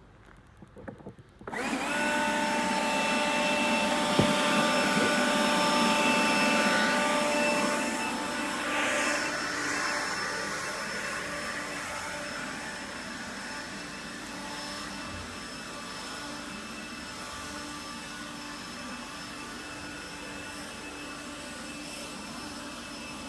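Leaf blower clearing debris off pavers, running steadily with a high whine. It comes in abruptly about a second and a half in, loud at first, then quieter from about eight seconds on.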